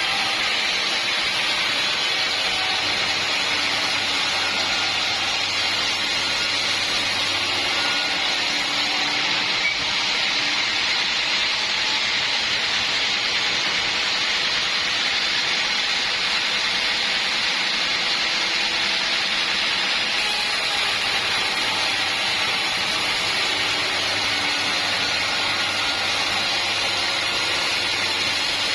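Sawmill saw running steadily through an acacia log, a continuous loud whirring saw noise with a low hum from the motor underneath.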